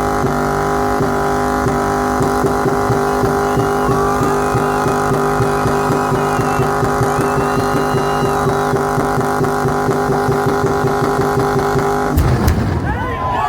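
A car engine held at steady high revs with a rapid, regular stutter, as in a burnout. It cuts off abruptly near the end, and the crowd cheers and whistles.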